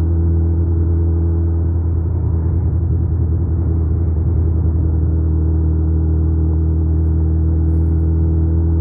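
2008 Suzuki Hayabusa's inline-four engine running at a steady cruising speed: an even, unchanging drone with no revving, heard over rushing road noise.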